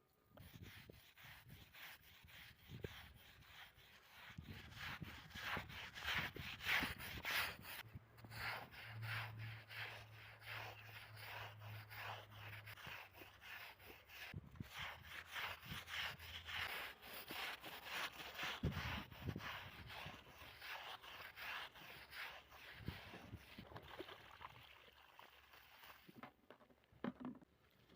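Quick repeated scrubbing strokes, something rubbing back and forth across a surface several times a second, stopping near the end.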